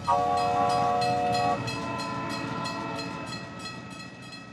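Train sound effect: a chord-toned train whistle blast that stops about a second and a half in, followed by a rhythmic clickety-clack of a moving train that fades away.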